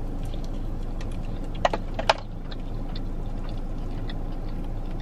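Chewing a bite of crispy Korean fried cheese stick, faint crunching clicks, over the steady low hum of a car cabin. Two short squeaky sounds come about halfway through.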